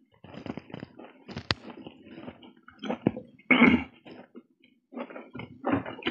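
Close-miked chewing of a mouthful of momo, with wet smacking and slurping mouth noises in irregular bursts. There is a sharp click about a second and a half in, and a louder wet burst a little past halfway.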